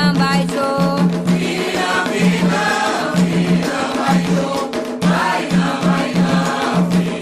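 Group of voices singing a Candomblé chant to the orixás over hand drums, a low drum stroke repeating about twice a second under busier percussion.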